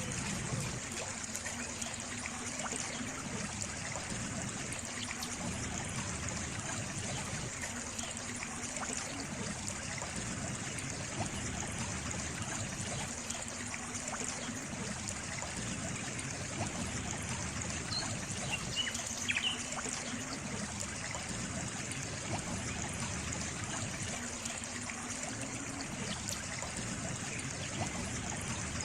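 Running water trickling steadily, with a low swell that comes and goes every few seconds.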